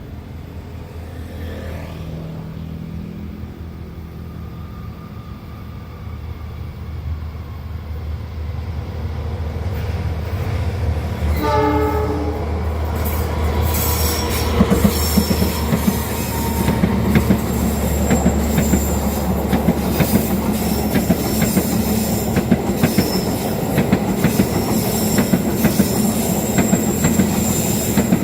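A train approaching, its low rumble growing louder, sounding one short horn blast about twelve seconds in, then passing close with fast clattering of wheels over rail joints and a high wheel squeal.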